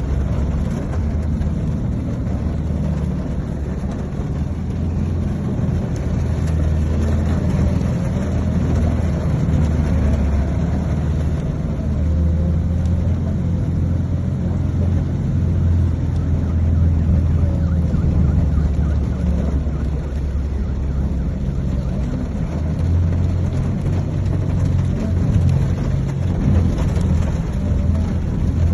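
A vehicle engine running steadily, a continuous low rumble with no sudden changes.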